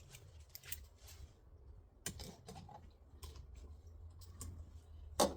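Light, irregular clicks and taps of a plastic bottle being handled, with a sharper knock near the end, over a low steady hum.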